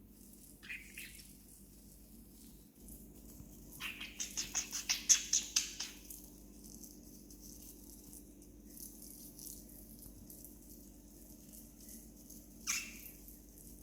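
A budgie playing with a small toy ball: a quick run of sharp clicks, about seven a second for two seconds in the middle, with a short chirp near the start and another near the end.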